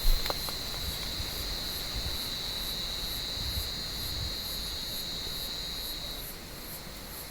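Cicada calling: a steady high-pitched buzz that stops about six seconds in.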